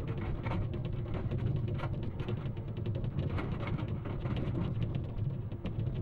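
Excavator's diesel engine running steadily, with many short cracks and knocks over it as the machine works.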